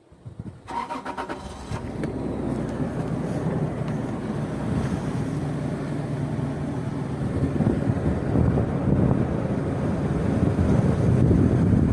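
Toyota Land Cruiser Prado 120 engine cranked by the starter and catching about a second in, then idling steadily and growing slightly louder.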